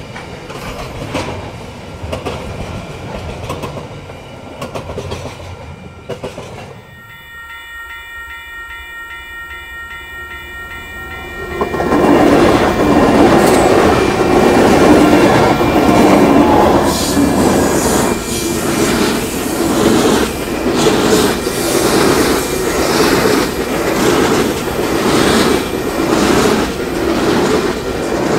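A container freight train's wagons roll past. Then a locomotive horn sounds a steady multi-tone chord for about four seconds. A coal train then passes close by: its 82 class diesel-electric locomotives come through loud at about twelve seconds in, followed by coal hopper wagons clacking rhythmically over the rail joints.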